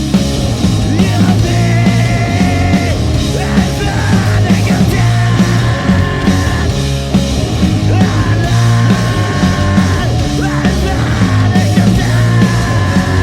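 Live rock band playing a loud, steady grunge-style song, with distorted electric guitars, bass and drums.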